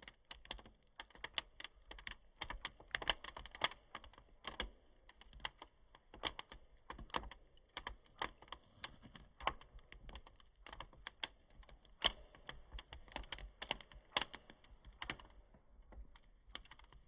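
Wood campfire crackling, with irregular sharp pops and snaps coming several a second.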